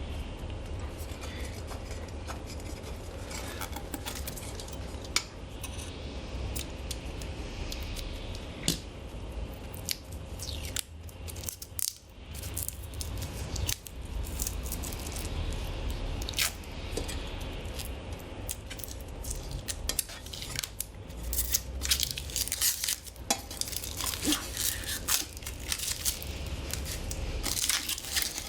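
Protective plastic film being peeled off the stainless-steel parts of a fire pit, with crinkling and tearing noises and light metal clinks as the parts are handled, over a steady low hum.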